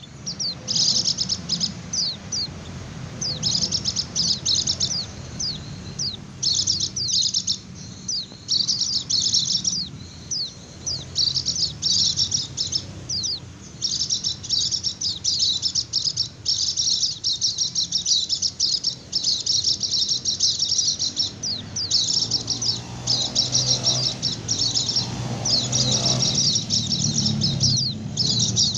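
White-eye (pleci) singing its 'ngecir' song: long runs of rapid, high-pitched twittering trills, nearly continuous with brief pauses. A steady low hum runs underneath.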